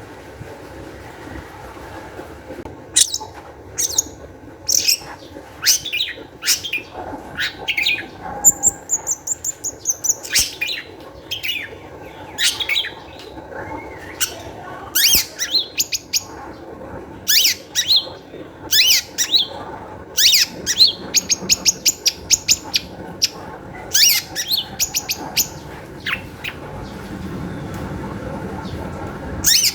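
Long-tailed shrike (cendet) singing in an excited, high-spirited run of short, sharp, high-pitched calls in quick succession, beginning about three seconds in, with a brief falling trill near nine seconds.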